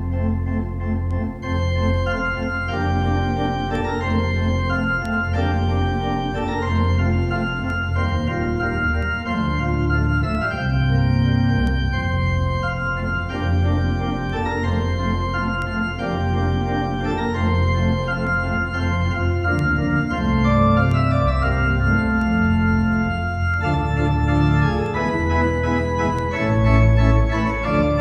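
Organ music: sustained chords that change every second or two over held bass notes, a postlude right after the closing benediction.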